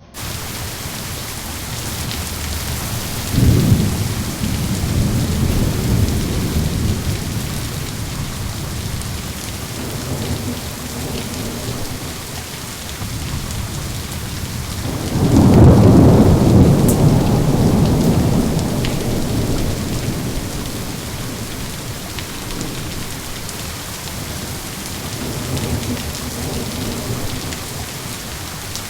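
Steady rain with rolling thunder: a clap about three seconds in that rumbles on for a few seconds, a louder, longer rumble about halfway through, and a fainter one near the end.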